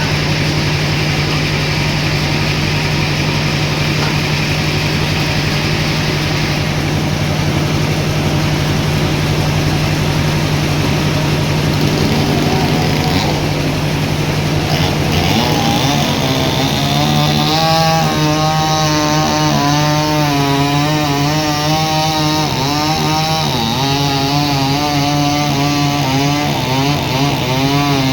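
Sawmill saw running with a steady low hum, then cutting through a log from about halfway in, its whine rising and falling in pitch as the blade takes the load.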